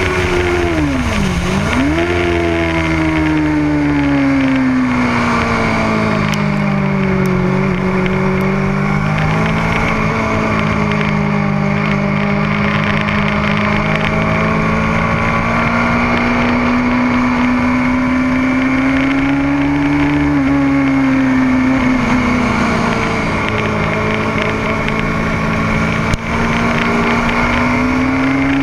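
Motorcycle engine running hard on a race track: its pitch drops sharply about a second in and climbs straight back, then holds fairly steady with slow rises, over a steady rushing noise. A single brief knock comes near the end.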